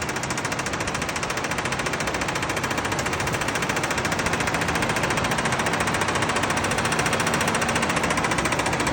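Toyota 3VZ-E 3.0-litre V6 running with a loud, rapid, even knock that comes from inside the engine. It grows slightly louder over the few seconds.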